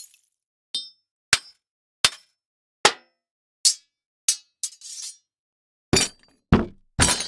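A series of about ten short, separate impact sound effects, clinking and clanging hits spaced roughly half a second to a second apart. The last three, near the end, are heavier and fuller than the thin, bright ones before them.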